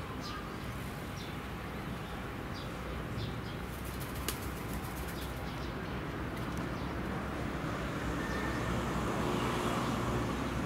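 Steady outdoor background noise with faint, short chirps of small birds every second or so and a single sharp click about four seconds in. The owl itself is not calling.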